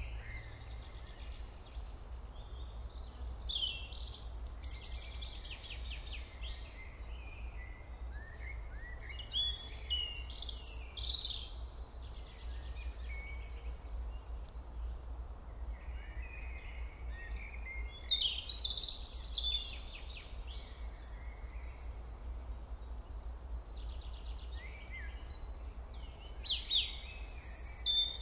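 Birds chirping and twittering in short clusters every several seconds, over a steady low hum.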